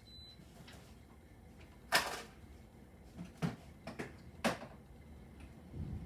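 A few sharp knocks and clatters of a toolbox being opened and rummaged through, the loudest about two seconds in. A brief high beep sounds right at the start.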